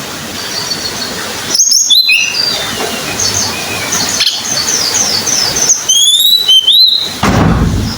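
A tledekan gunung songbird singing: a loud burst of chirps about two seconds in, then a quick run of short high notes, then rising whistled notes. A low rumble follows near the end.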